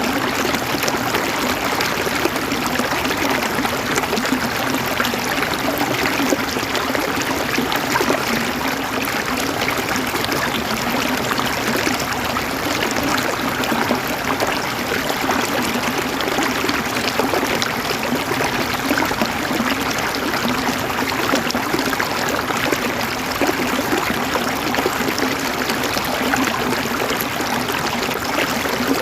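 River water flowing over stones, a steady burbling and splashing rush with fine trickling detail.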